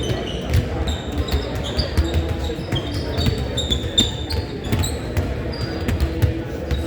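Indoor basketball game: sneakers squeak repeatedly on the court and a ball thuds with each bounce, over a murmur of voices.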